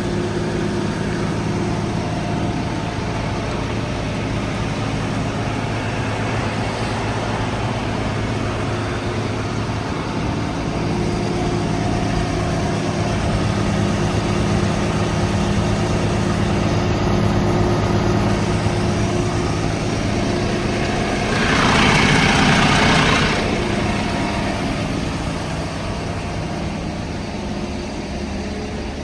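Volvo FH 280 truck's diesel engine idling steadily. About three-quarters of the way through, a louder rush of noise lasts about two seconds.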